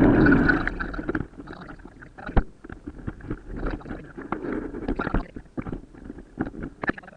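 Mountain bike rattling over rough ground: irregular clicks and knocks, with one sharper knock a couple of seconds in. Wind rushes over the microphone for about the first second, then drops away.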